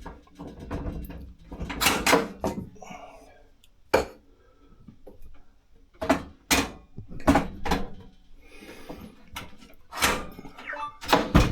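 Wooden cabin lockers and access panels on a sailboat being opened and shut: a string of separate knocks and clunks, with quieter handling and rattling between them.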